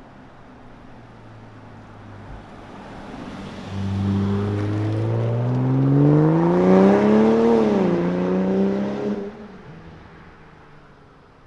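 BMW X5 45e's turbocharged straight-six, with an OPF-delete midpipe and valved catback exhaust, accelerating past. The note swells suddenly about four seconds in and climbs in pitch, drops as the car goes by, then fades away.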